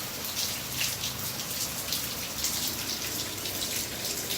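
Rain falling steadily, with scattered louder drops splashing close by.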